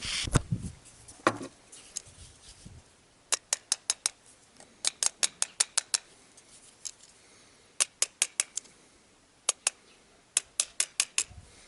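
Sharp taps in quick runs of four to six, a second or two apart, with a couple of knocks about a second in: small parts of a car heater fan motor being fitted and tapped together during reassembly.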